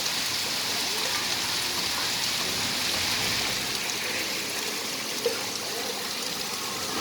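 Steady rain falling, an even hiss, with one brief tap about five seconds in.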